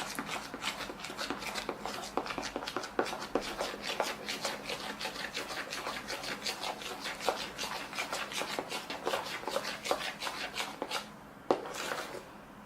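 Elmer's glue and shaving gel being stirred together in a container by hand: quick repeated sticky scrapes and clicks of the stirrer against the container, several a second, thinning out near the end.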